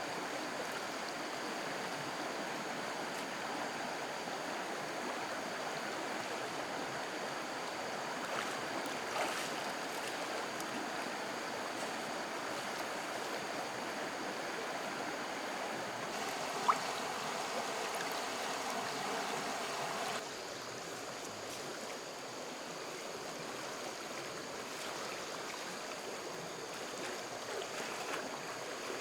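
Flowing stream water, a steady rushing hiss. A few faint knocks are heard, and the sound steps down slightly about twenty seconds in.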